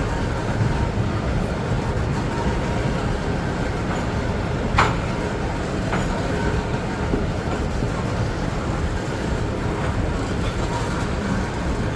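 Long freight train of cement wagons rolling slowly past: a steady rumble of wheels on rail, with faint squeaks and a sharp metallic clank about five seconds in.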